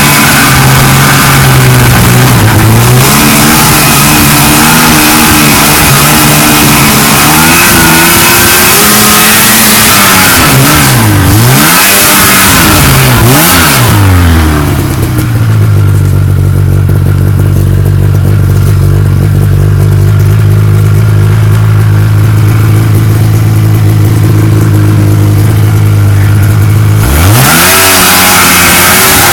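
1979 Ski-Doo Blizzard 5500 snowmobile's two-stroke engine running under throttle; the engine note drops and climbs twice in quick succession about eleven seconds in, then holds a steady lower note for about twelve seconds before revving sharply up near the end.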